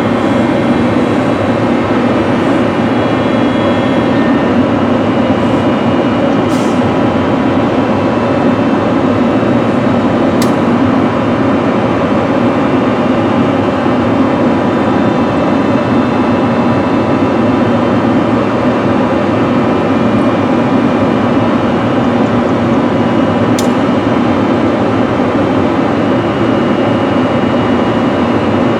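NJ Transit train running close by: a steady, loud rumble with several constant tones that does not rise or fall. Brief sharp clicks come three times, about a third of the way in, again shortly after, and near the end.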